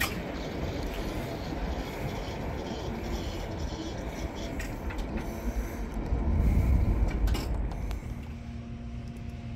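Freight train rolling past, a continuous deep rumble of wheels on rail with a few sharp clicks, loudest about two-thirds of the way through and easing off near the end.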